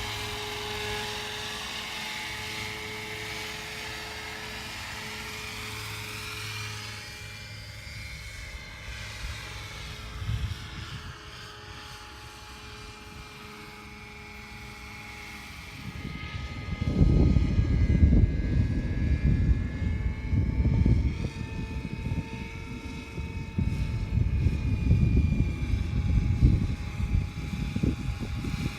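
Radio-controlled Agusta AW139 scale model helicopter running, its motor and rotors making a steady whine. Just past halfway, a loud, uneven low buffeting comes in and stays over the whine.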